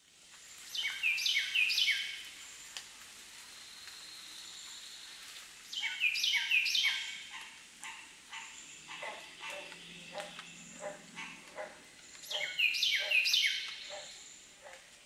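Birdsong: a songbird repeats a bright phrase of quick falling notes about every five to six seconds. Softer, shorter chirps come in between.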